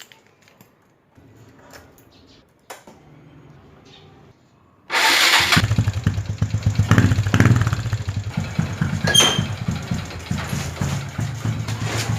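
Motorcycle engine being started: a few seconds of faint hum and clicks, then the engine catches about five seconds in and settles into a steady idle.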